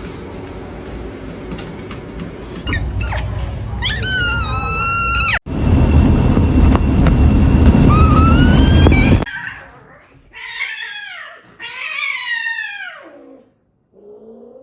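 A run of short pet clips with abrupt cuts: household background noise with pitched animal calls from a pet, a wavering call about four seconds in, rising calls around seven seconds, and a few falling calls near the end.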